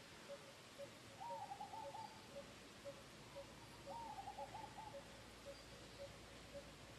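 Faint bird calls: a short low note repeated steadily about twice a second, and twice a brief run of higher warbled notes.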